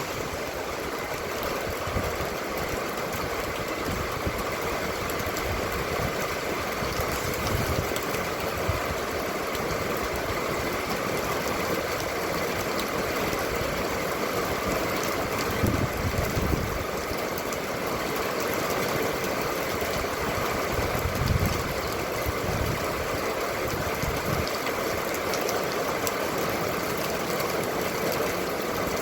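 A vehicle's engine running steadily, with a constant low rumble and a couple of brief heavier swells of low rumble.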